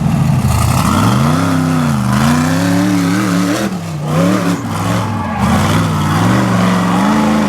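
Rear-engine rock bouncer buggy's engine revving hard under full throttle as it climbs rocky ledges, the pitch rising and falling repeatedly with brief lifts off the throttle about halfway through.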